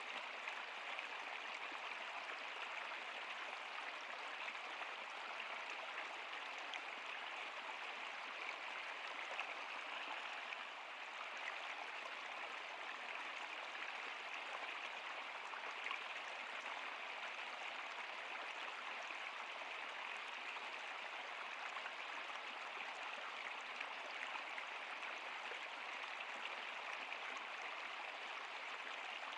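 Running water rushing steadily, an even hiss flecked with small splashes and trickles.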